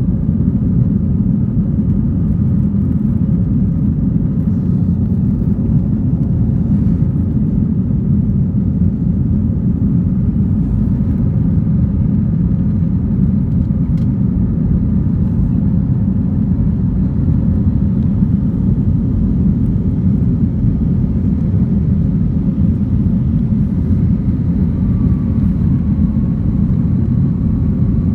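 Airbus A321 jet noise: a steady low rumble, with faint whining tones above it.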